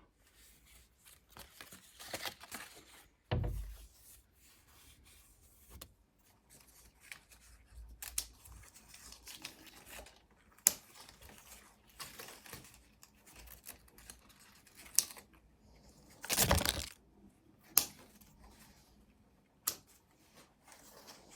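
Hands handling material at close range: intermittent rustling, crinkling and tearing, with scattered sharp clicks and light knocks. The longest, loudest rustle comes about sixteen seconds in.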